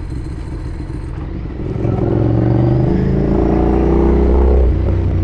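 Ducati Streetfighter motorcycle engine under way: about two seconds in the throttle opens and the engine note grows louder and rises as the bike accelerates, then eases off near the end.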